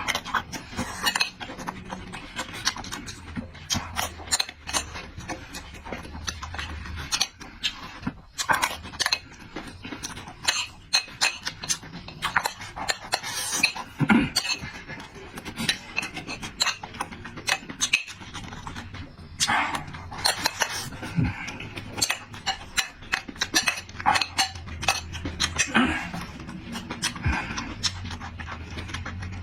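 Close-miked mukbang eating sounds: a person chewing meat and noodles with wet mouth noises, lip-smacks and many sharp irregular clicks.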